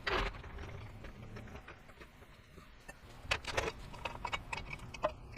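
Faint, scattered clicks and light knocks of tools and parts being handled during a tie rod job, a small cluster about three seconds in and another near the end.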